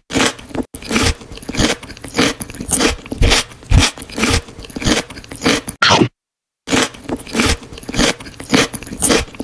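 Close-miked crunchy chewing and biting of food, a quick run of loud crackling crunches, broken by a brief silent gap about six seconds in before the chewing resumes.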